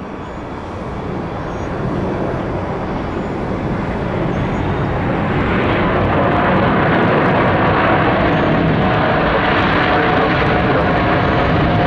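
Jet airliner engines growing steadily louder over about six seconds, then holding loud with a steady whine over the rushing noise.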